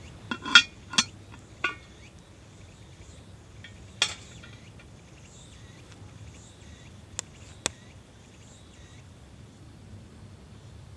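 A few sharp, ringing clinks of hard objects, like utensils on cookware, three close together in the first two seconds and one more about four seconds in, then two short clicks near the end; faint high chirping in the background.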